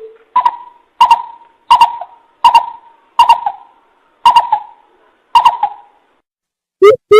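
Coucal calling: a series of about seven deep, evenly spaced hoots. After a short pause near the end, a faster run of lower hoots begins.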